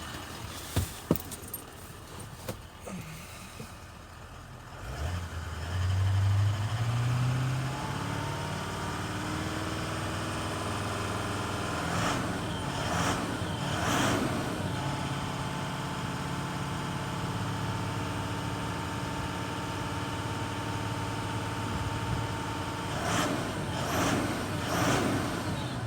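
Toyota Land Cruiser 4.5-litre diesel engine. A few sharp clicks come near the start, then the engine note rises sharply about five seconds in and settles into a steady idle. Short revs come about twelve to fourteen seconds in and again near the end.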